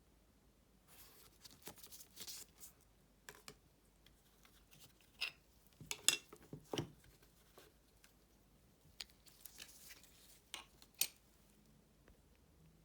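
Handling of a silver coin's presentation box and plastic capsule: faint, scattered clicks, scrapes and rustles as the packaging is opened. The loudest is a cluster of sharp clicks about halfway through.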